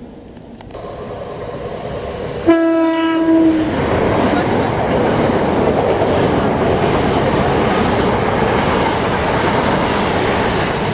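A train approaching and going past the platform, sounding one horn note for about a second about two and a half seconds in, followed by a loud, steady rush of the train passing by.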